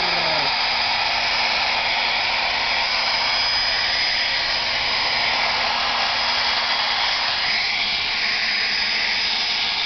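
Handheld hair dryer blowing steadily, a constant rushing of air, its tone shifting slightly near the end.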